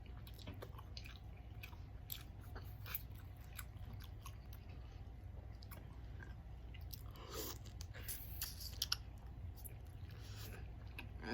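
Close-miked chewing and biting of seafood boil food, with many short wet mouth clicks and smacks. Louder bites come around eight to nine seconds in, over a steady low hum.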